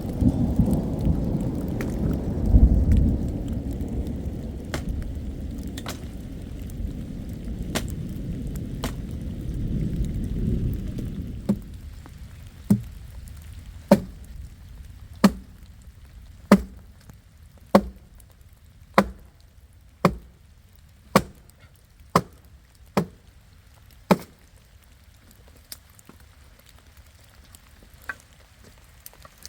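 Thunder rumbling low and rolling for the first ten seconds or so, then dying away under a steady light patter of rain. After that comes a run of about a dozen sharp knocks, evenly spaced a little over a second apart, which stop about two-thirds of the way through.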